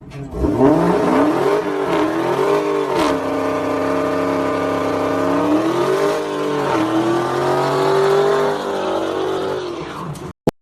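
Engine revving, its pitch rising and falling several times, then cutting off suddenly near the end with a short click.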